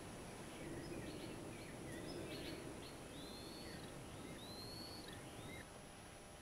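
Bird calls over a steady background hiss: a quick run of short chirps, then two arching whistled notes, each rising and falling, about three and a half and four and a half seconds in. The background noise drops slightly near the end.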